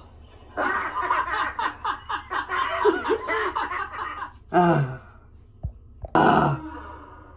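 Animated characters laughing hard for several seconds. This is followed by two short falling vocal calls and a couple of sharp knocks.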